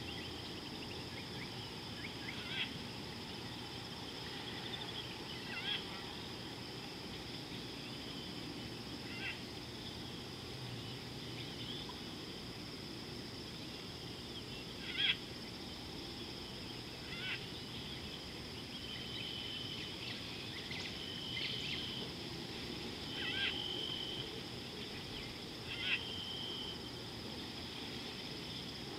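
Wild bush ambience: scattered short bird calls every few seconds, then several brief held whistled notes in the second half, over a steady high-pitched drone.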